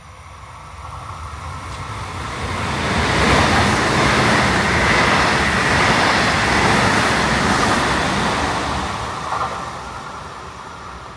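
Double-deck electric passenger train passing along the platform: the rumble of wheels on rail builds over about three seconds, stays loud for several seconds as the cars go by, then fades as it moves away.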